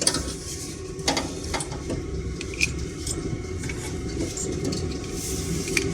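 A few light clicks and small plastic rattles from a wiring plug being handled and fitted onto a diesel heater's control board, over a steady low hum.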